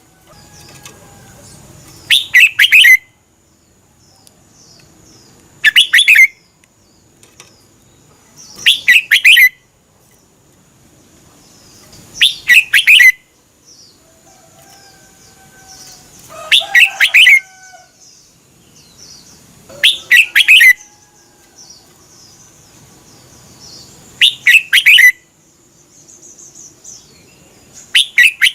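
Red-whiskered bulbul singing a short, loud song phrase about every three to four seconds, eight times over, each phrase a quick run of notes lasting under a second. This is the doubled 'เบิ้ล' song style that Thai keepers play to caged bulbuls for them to copy.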